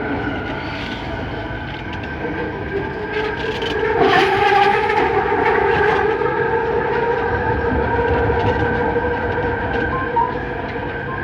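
Bombardier Innovia Metro 300 metro train running between stations, heard from inside the car: a steady hum of several held tones from its linear induction motor drive over a rolling rumble. It gets louder about four seconds in, with a few sharp clicks.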